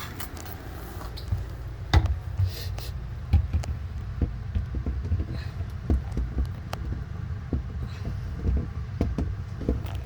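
Irregular knocks and clicks as refrigerator shelves and fittings are handled and fitted into place, with one sharper knock about two seconds in. A steady low rumble runs underneath.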